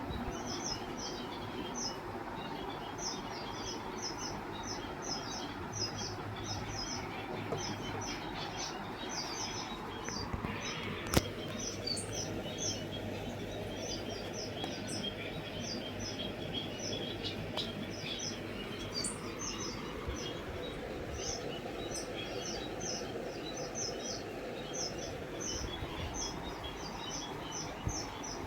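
Many small caged birds chirping in quick, short, high notes over steady background noise, with a single sharp click about eleven seconds in.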